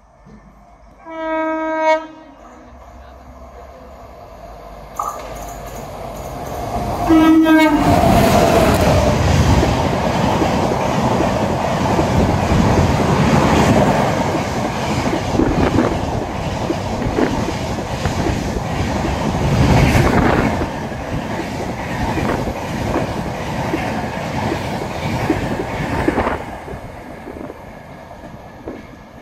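Indian Railways express train sounding its horn twice, a one-second blast about a second in and a shorter one near seven seconds that falls slightly in pitch as it arrives, then passing at speed: a long, loud rush of wheels on rails with the clickety-clack of the coaches, fading near the end.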